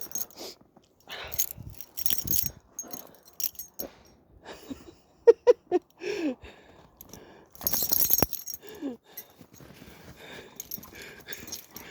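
Metal dog-collar tags jingling in irregular shakes, mixed with crunching snow, as a German Shepherd moves about. The loudest burst of jingling and crunching comes about eight seconds in.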